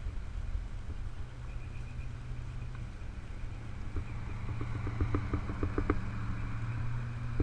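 A car engine running with a steady low hum and rumble. About two-thirds of the way through there is a short run of quick, even ticks.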